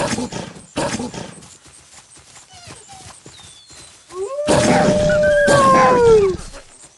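Wolf howling: one long smooth call that rises, holds for about two seconds and falls away. Two short loud noisy bursts come at the start and about a second in.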